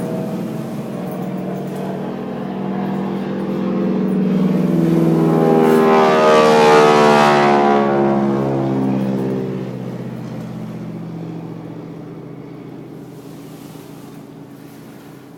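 Propeller-driven T-6 trainer aircraft flying over: the engine and propeller drone grows louder to a peak about six to seven seconds in, drops in pitch as it passes, then fades away.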